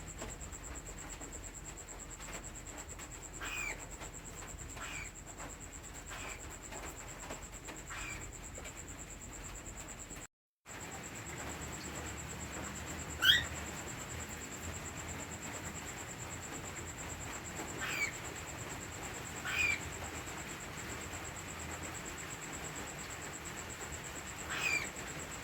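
Cockatiels chirping: single short, falling chirps every few seconds, the loudest about halfway through. A steady high-pitched whine runs underneath.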